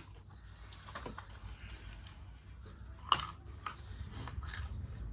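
A person chewing food close to the microphone, with soft irregular mouth clicks and one sharp click about three seconds in.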